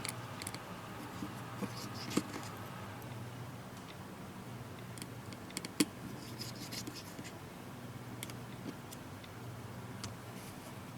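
Small, scattered clicks and light scratching of a small screwdriver and tools working on a tablet's internal parts while screws are removed from the charging port, with one sharper click a little before halfway. A steady low hum sits underneath.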